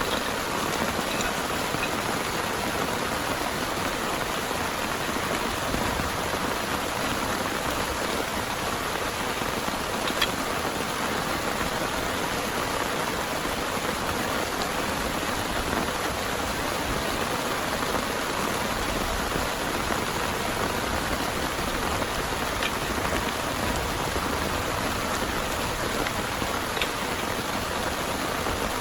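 Heavy rain falling steadily, with a few sharper drop hits standing out now and then.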